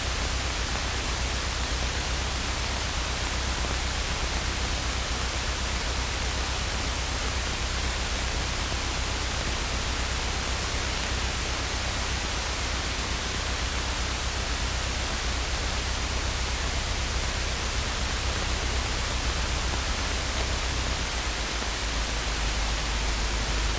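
Steady hiss of radio static on an aircraft radio and intercom feed between air traffic control transmissions, with a low steady hum underneath.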